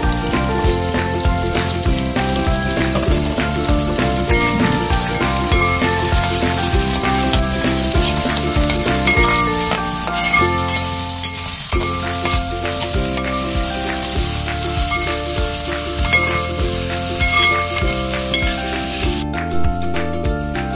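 Shallots frying in hot oil in a metal pan, a steady sizzle as a spatula stirs them. Background music with a steady beat plays throughout. The sizzle cuts off about a second before the end.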